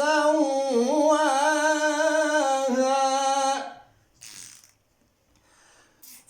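A male Qur'an reciter's voice holding a long, ornamented melodic note in tajweed style, with small wavers in pitch, ending about three and a half seconds in. A near-silent pause follows, broken by a short breath before the recitation resumes.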